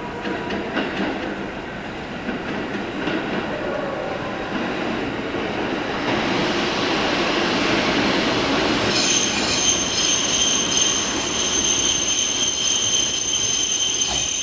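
Kotoden electric train pulling into the station: the running rumble of wheels on rails grows steadily louder as it approaches. From about nine seconds in a sustained high-pitched wheel squeal sets in as it rounds the curve to the platform.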